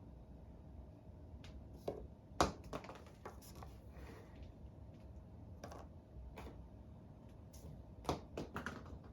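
Irregular light clicks and taps in two clusters, one about two seconds in and one near the end, over a faint steady hum.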